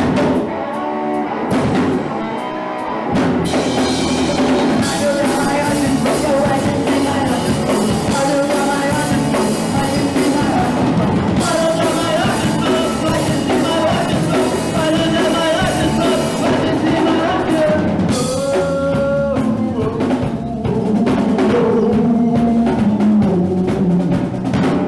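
Live punk rock band playing an instrumental passage, with a few separate hits at the start and the full band with drum kit coming in about three seconds in.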